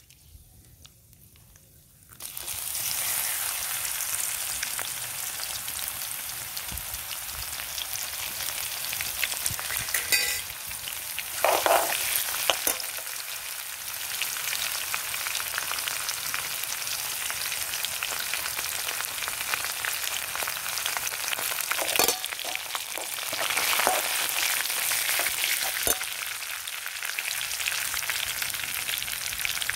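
Garlic cloves frying in hot oil in a steel wok: a loud, steady sizzle that starts suddenly about two seconds in, as the garlic goes into the oil. A metal ladle stirs them, with a few short scrapes against the pan.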